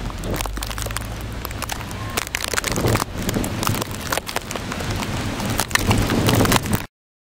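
Dense crackling and clicking over a steady low rumble, cutting off abruptly near the end.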